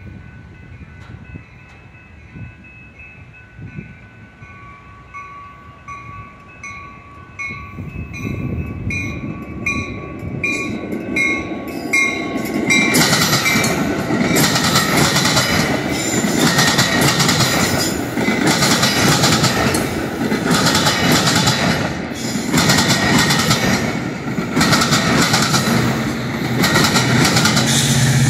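Grade-crossing warning bell ringing about twice a second as a Metra commuter train approaches. About 13 seconds in, the train's bilevel gallery cars arrive and pass close by: loud steady wheel and rail noise with a rhythmic clickety-clack of wheels over rail joints.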